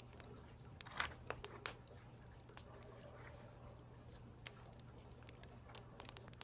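Quiet mix of a wood fire crackling and keyboard keys being struck: scattered, irregular sharp clicks and pops, bunched together about a second in, over a faint low steady hum.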